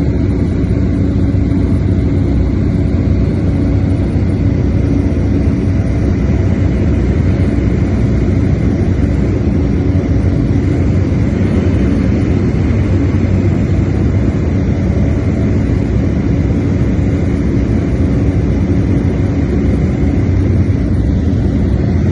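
Steady, loud airplane cabin noise in flight: a constant drone with a low hum running through it.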